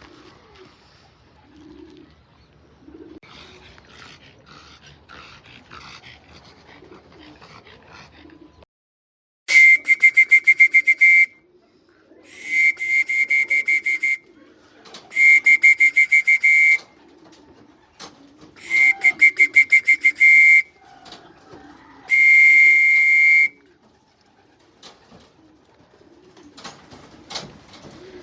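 A pea whistle blown in five trilling blasts of one to two seconds each, about a second apart, starting about a third of the way in. It is a pigeon keeper's signal calling racing pigeons in to the loft for water. Before the whistling, pigeons coo softly.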